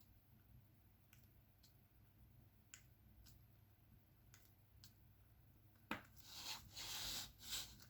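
Faint, sharp clicks about once a second as a diamond-painting pen presses resin drills onto the canvas. About six seconds in, a louder rustling scrape lasts under two seconds.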